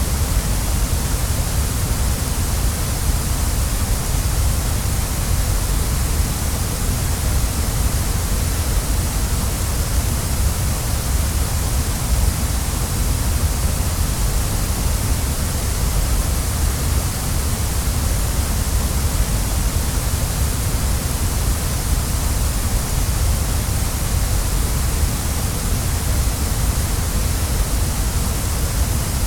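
Waterfall: a steady, unbroken rush of falling water, a deep rumble under a bright hiss.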